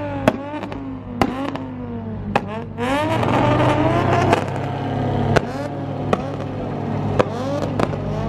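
A car engine revving hard, its pitch swinging up and down about once a second, with several sharp cracks scattered through. A second, steadier engine note comes in from about three seconds in.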